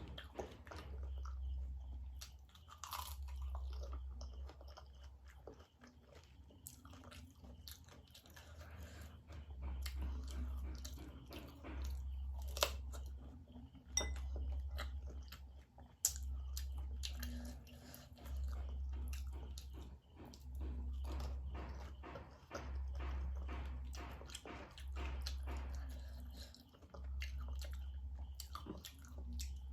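Close-up crunching and chewing of crisp pani puri shells filled with spicy pani, many sharp crunches throughout, over a low rumble that swells and fades about every two seconds.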